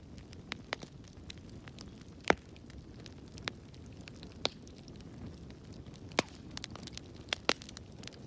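Wood fire burning in a fireplace: a low, steady rumble with sharp, irregular crackles and pops, the loudest pop a little over two seconds in and a pair near the end.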